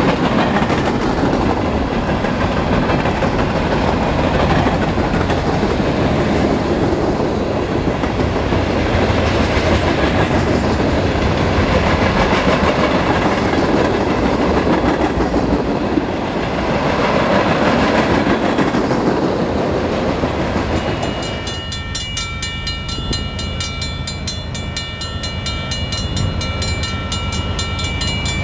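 Freight train of hopper and tank cars rolling past at speed, a steady loud rumble of wheels on rail. About three-quarters of the way through it gives way suddenly to a quieter sound with several steady high-pitched tones.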